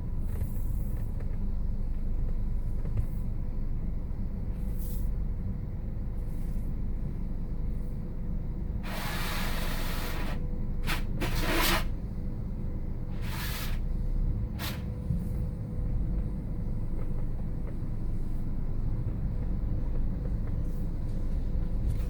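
Steady low rumble of a car at an automatic car wash, with several short hissing bursts of spray or air, the longest a little before the middle.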